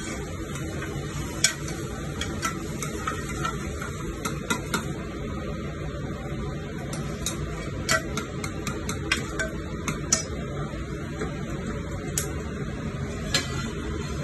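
Keema and masala frying in a pan while a spoon stirs it: a steady sizzle, with scattered sharp clinks of the spoon against the pan.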